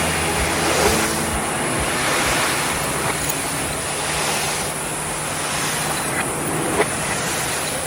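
Assembly-workshop noise: a steady rushing hiss over a low hum, with a few light knocks.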